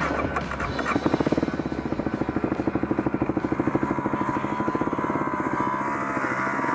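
Dirt bike engine running at low revs with a rapid, even chugging pulse.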